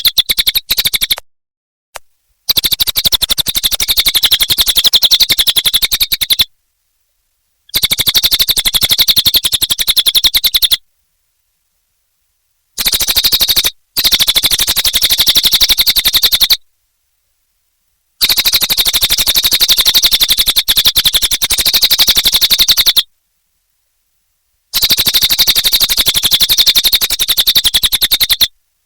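Cililin bird singing in loud, fast chattering trills of rapidly repeated high notes. The trills come in bursts of one to five seconds, about six of them, each cut off abruptly into dead silence.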